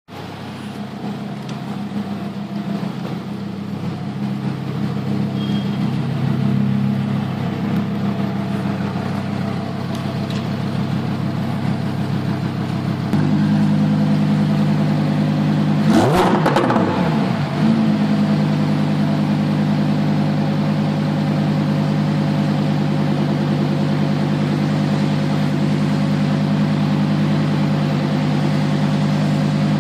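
Lamborghini Huracán Performante's V10 engine idling steadily, its note stepping up louder about 13 seconds in. About 16 seconds in it gives one quick rev that rises and falls, then settles back to a steady idle.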